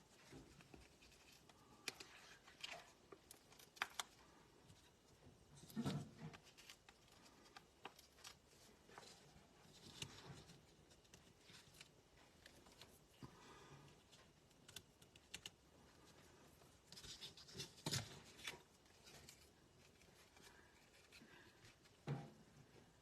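Faint handling of paper and cardstock: scattered small clicks, taps and rustles, with a few slightly louder handling sounds about six seconds in, near eighteen seconds and near the end, as small foam adhesive dimensionals are peeled and a tag is pressed onto a card.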